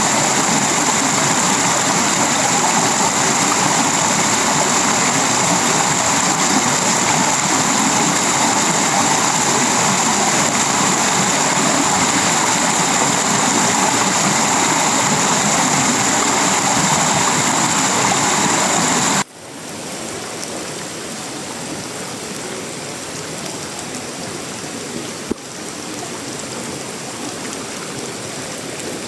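Heavy tropical rain falling on sheet-metal roofing and leaves, a steady dense hiss. About two-thirds of the way through it drops abruptly to a softer, quieter rain, with a single sharp click a few seconds later.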